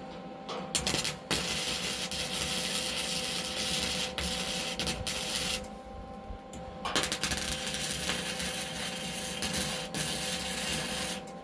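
Gasless flux-core MIG welder laying beads on steel: a steady crackling hiss for about five seconds, a short pause, then another run of about four seconds, over a steady electrical hum.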